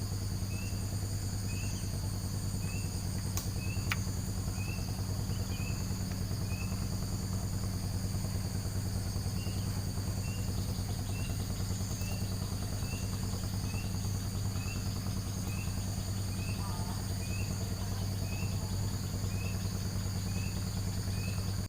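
Night insects trilling steadily, with a short rising chirp repeating about every two-thirds of a second, over a steady low hum. Two faint clicks come about four seconds in.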